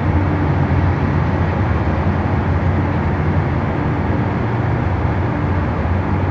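Boat engines running with a steady low drone, without a break.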